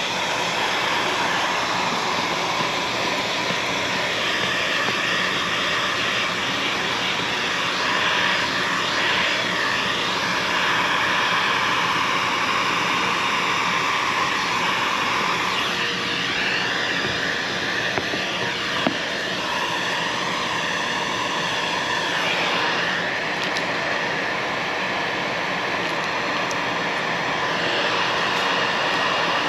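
A fan-driven power tool running steadily: a continuous rush of air with a whine, the pitch shifting a little about halfway through.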